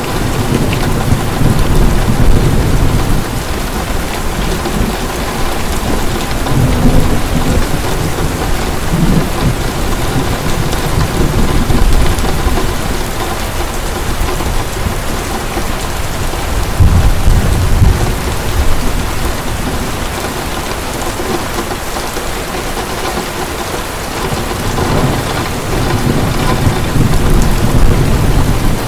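Heavy rain falling in a steady downpour, with low rolls of thunder rumbling through it several times. The deepest roll comes about halfway through.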